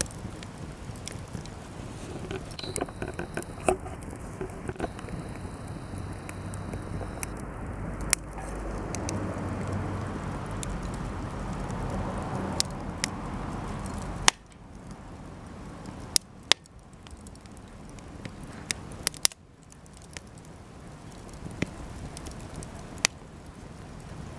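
Cedar offcuts burning in a campfire, crackling with sharp pops scattered throughout. A steady rushing noise under the pops swells in the middle and drops away suddenly about fourteen seconds in.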